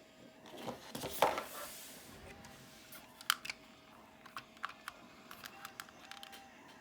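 Plastic parts of a transforming robot toy being handled: a brief rustle, then a run of small sharp plastic clicks as pieces are moved and snapped.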